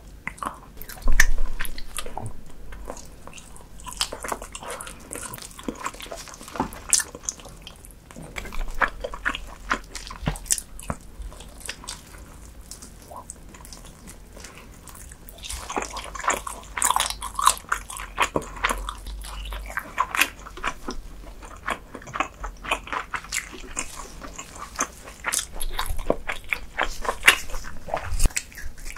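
Close-miked eating sounds: a person biting and chewing sticky, gelatinous meat, with a continuous run of wet mouth clicks and smacks that grows busier in the middle.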